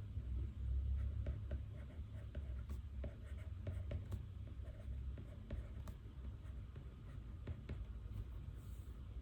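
A pen scratching on paper in many short strokes, writing notes by hand, over a low steady hum.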